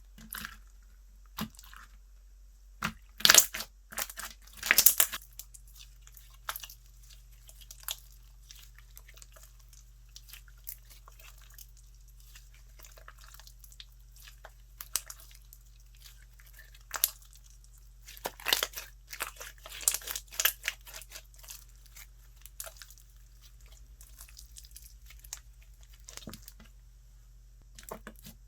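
Slime being squeezed, stretched and pressed by hand, giving irregular crisp crackles and clicks, with two louder flurries, one a few seconds in and one about two-thirds of the way through.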